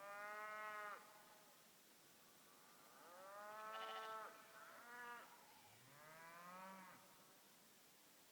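Cows mooing: four drawn-out calls, the second the longest and the third short, each rising a little and then falling away.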